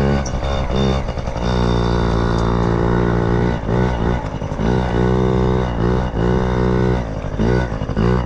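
Yamaha PW50 mini dirt bike's small two-stroke single running, its engine note rising and falling repeatedly as the throttle is opened and closed.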